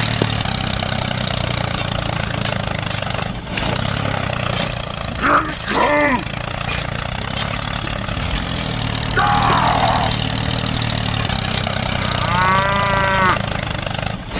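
A mini tractor's engine runs with a steady low hum, with short pitched calls about five, nine and twelve seconds in.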